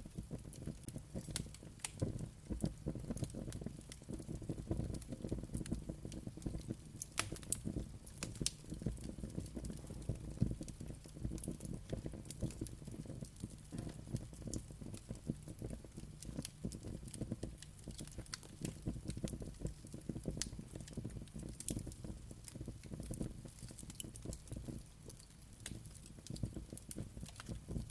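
Wood fire crackling and popping steadily, with many sharp irregular snaps over a low rumble of burning.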